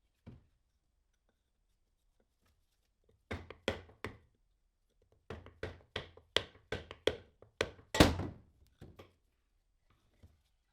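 A series of sharp knocks: one faint knock at the start, three close together a few seconds in, then a quick run of about ten, the loudest near the end.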